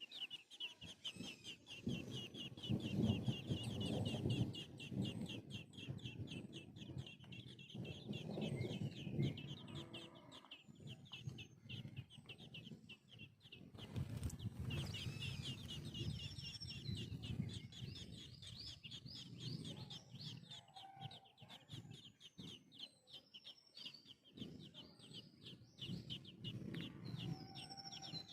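Chicks peeping in a continuous run of rapid, high notes, with a hen's low clucking coming in repeated bouts.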